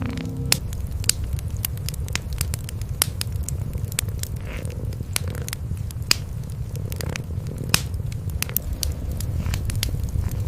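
Wood fire in a fireplace crackling, with frequent irregular sharp pops, over a steady low purring from cats.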